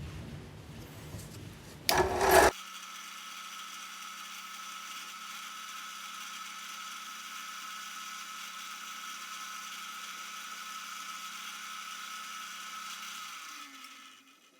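Low rumbling noise, then a brief loud burst about two seconds in, after which a small power-tool motor runs at a steady speed with an even high hum and winds down near the end.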